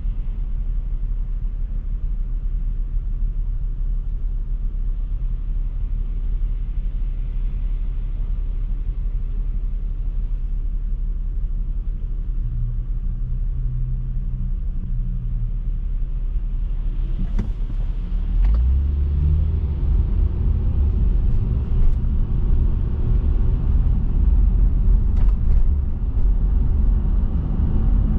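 Car driving on city roads: a steady low road and tyre rumble that grows louder about two-thirds of the way through, with a few faint clicks near the end.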